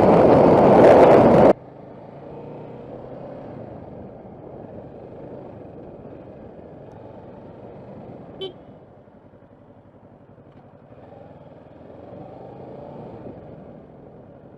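Heavy wind buffeting on a riding microphone that cuts off abruptly after about a second and a half. Quieter road traffic and vehicle engines follow, with one brief horn toot about eight seconds in.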